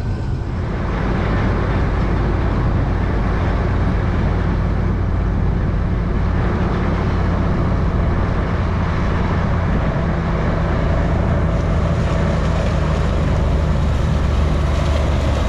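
Case IH 2388 combine running steadily while harvesting corn: a continuous engine and machine drone with a steady low hum, filling out slightly about a second in.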